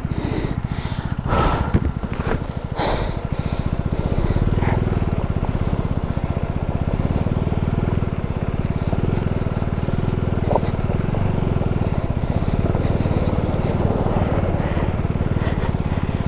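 KTM Duke 390's single-cylinder engine running steadily as the motorcycle rides over a loose gravel road, with a couple of sharp knocks about one and a half and three seconds in.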